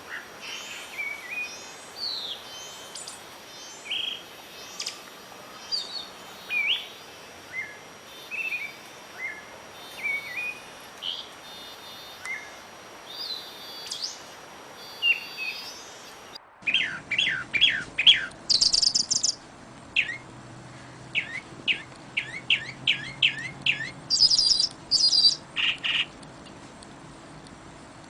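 Several birds singing, a mix of short chirps and whistled notes. About two-thirds of the way through it cuts suddenly to a different bird chorus, with quick runs of falling notes and bursts of high trills.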